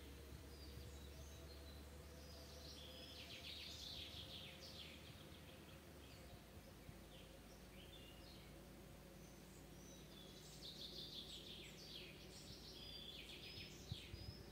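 Small songbirds singing faintly in woodland: several phrases of quick, trilled notes, with short gaps between phrases. A single sharp click near the end.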